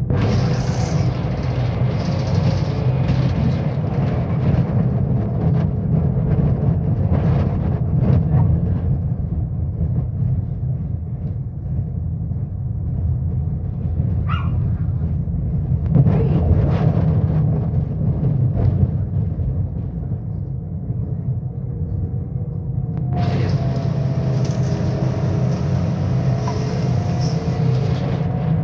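Scania K270UB single-decker bus's diesel engine and ZF automatic gearbox under way, starting abruptly with a steady deep rumble. A whine from the gearbox and driveline runs through it, coming back stronger from about 23 seconds in.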